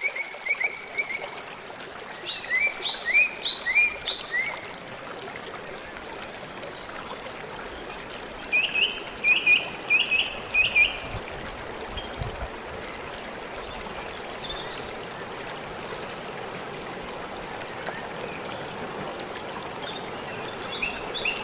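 A stream running steadily, with a bird calling in short series of quick chirping notes several times: at the start, about two seconds in, and again about nine seconds in.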